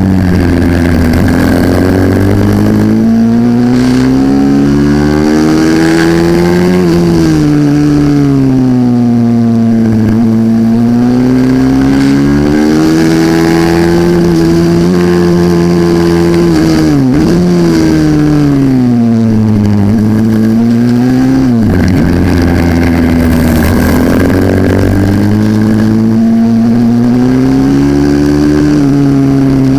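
A 140cc pit bike engine at racing speed, its pitch climbing under throttle and falling away again and again through corners, with two sudden drops where the throttle snaps shut partway through.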